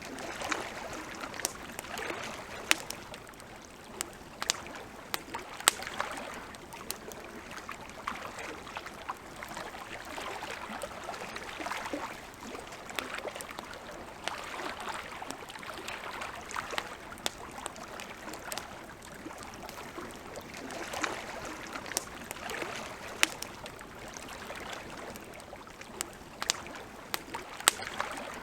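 Wood campfire crackling, with irregular sharp pops over a soft wash of lapping water that swells and fades every few seconds.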